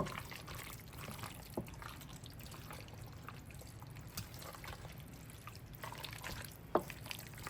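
Wet, squelching sounds of a thick cheesy vegetable mixture being stirred in a bowl, with a few light utensil clicks, the sharpest near the end.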